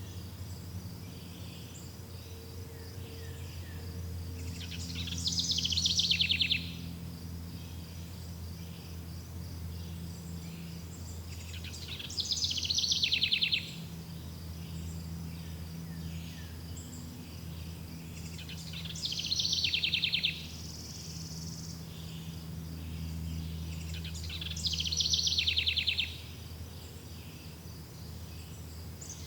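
Forest ambience: crickets chirping in a steady high trill while a songbird sings a short, rapid trilled phrase four times, about every six or seven seconds. A low steady rumble runs underneath.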